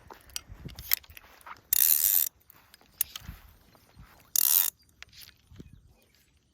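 Fly reel's click-and-pawl ratchet buzzing in two short bursts of rapid clicking, about two seconds in and again past four seconds, as line runs on or off the spool.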